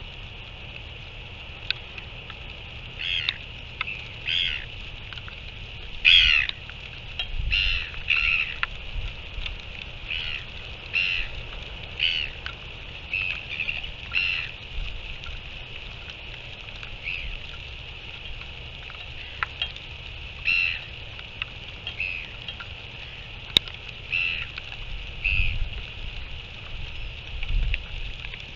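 Birds calling over and over, about twenty short calls spread through, several in quick pairs, over a steady low wind rumble on the microphone.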